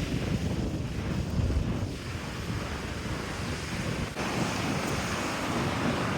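Surf washing on the shore with strong wind buffeting the microphone, whipped up by an approaching typhoon. About four seconds in, the low gusty rumble gives way to a steadier surf hiss.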